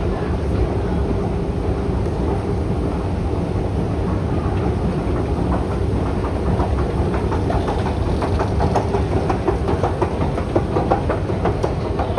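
A train running with a steady low rumble, its wheels starting to clatter in quick clicks about halfway through and growing louder towards the end.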